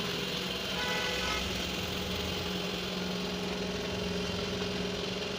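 A motor or engine running steadily with an even hum.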